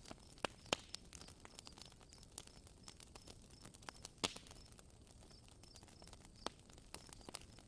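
Campfire crackling: irregular sharp pops and snaps of burning wood over a soft hiss, with the loudest pop about four seconds in.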